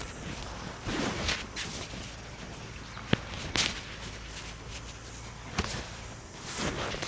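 Handling noises: several short rustling swishes and two sharp clicks, the loudest click about three seconds in.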